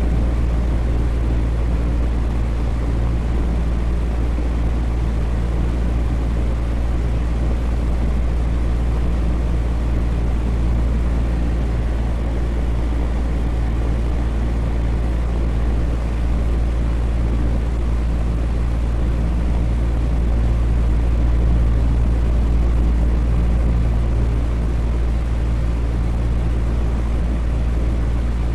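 Electric fan running steadily: a continuous low hum with a whooshing rush of air over it.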